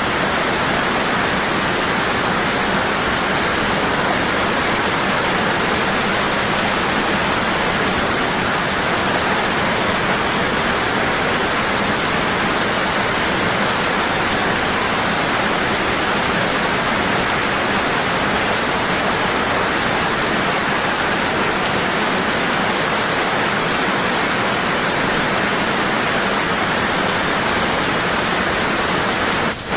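Waterfall pouring heavily and steadily: a constant, even rush of falling water, with one brief dip near the end.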